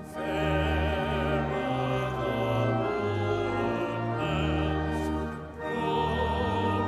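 A hymn sung with vibrato over sustained low accompaniment, in long held phrases with a brief break about five and a half seconds in.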